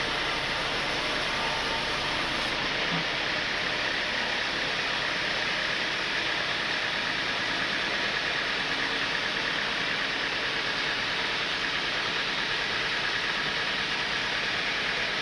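Sawmill machinery running steadily, a constant even noise with no breaks.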